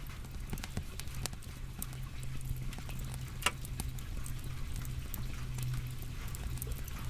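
Wood fire burning, with irregular crackles and pops and one louder pop about three and a half seconds in, over a steady low hum.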